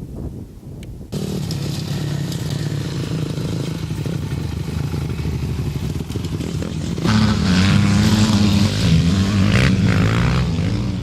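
Motorcycle engine running. It comes in abruptly about a second in, then gets louder with a wavering pitch about seven seconds in, as if the bike is pulling away under throttle.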